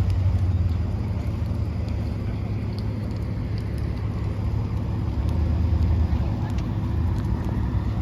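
Fire engine's diesel engine running as the truck drives, a loud steady low rumble with road noise. No siren sounds, as fits a code 2 response.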